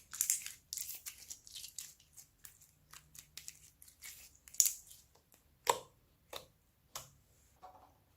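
Slime being mixed and stretched by hand, giving irregular sticky crackles and small pops, with a few louder pops in the second half.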